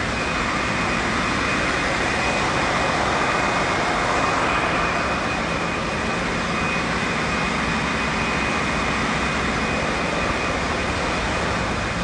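Ship's engine-room machinery running: a loud, steady din with a constant high whine over a low rumble.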